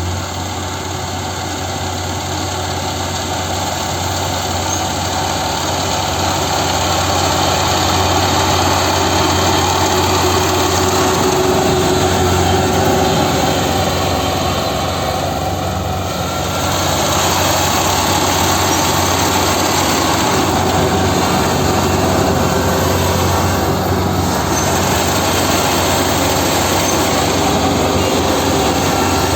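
A rice-harvesting machine's engine running steadily under load, with a low hum beneath broad mechanical noise. The level dips briefly about halfway through.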